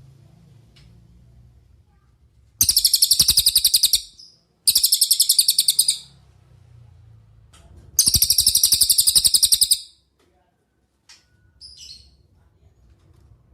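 Cililin songbird singing: three loud, rapid rattling trills, each a second or two long, with a faint short call near the end.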